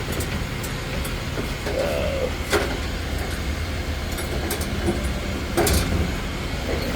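2011 Ford F-550 service truck's engine idling with a steady low rumble, with two sharp knocks about two and a half and five and a half seconds in.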